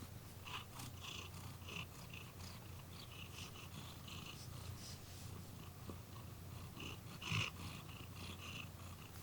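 Scottish Fold cat purring steadily and faintly. Light crackling ticks sound over the purr, with a louder one about seven seconds in.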